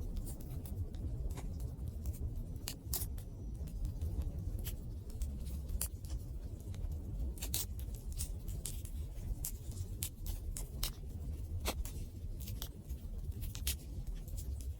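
Wood campfire crackling: irregular sharp pops and snaps over a low steady rumble of burning.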